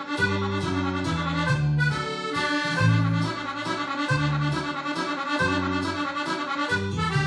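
Accordion playing a mazurka tune over a regular bass line and a light, steady ticking beat, in balera dance-hall style.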